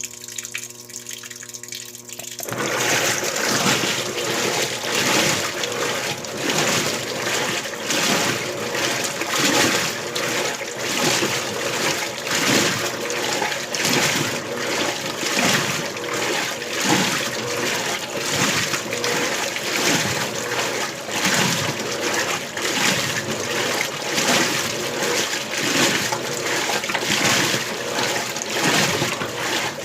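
Electrolux LBU15 top-loading washing machine: a low steady hum for about the first two seconds, then water sloshing loudly in regular surges, about one a second, as the agitator works the load in the rinse.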